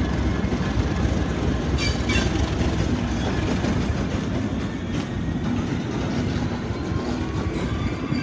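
Heritage diesel train running on the line: steady engine and wheel-on-rail rumble, with a couple of brief high wheel squeals about two seconds in.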